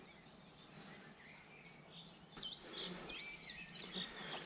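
Small birds singing faintly: a scatter of short chirps and quick whistled sweeps over a quiet outdoor background, getting busier about two seconds in.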